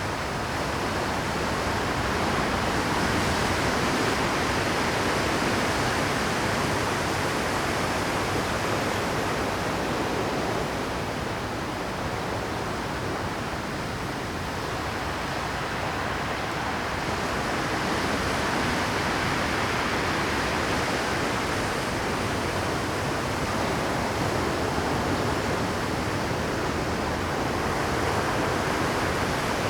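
Rough Pacific surf breaking continuously on rocky shore, a dense steady wash of water that swells and eases slowly as the waves come in.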